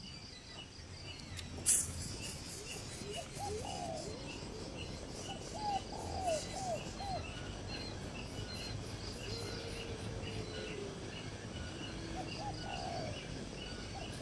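Birds calling: a short high chirp repeats steadily about two to three times a second, while lower, curving calls come in short runs. There is a sharp click about two seconds in.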